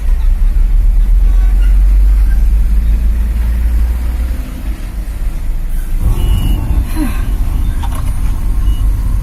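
Road traffic with heavy vehicles passing, a deep rumble that eases about four and a half seconds in, then picks up again with a broader, noisier sound around six seconds.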